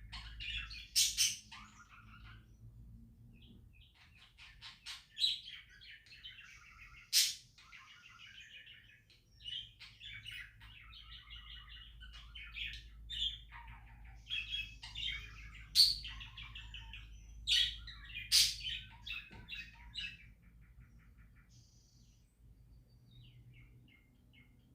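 Budgerigars chirping and warbling in a busy stream of chatter, with a few sharp, loud calls standing out. The chatter thins out after about twenty seconds.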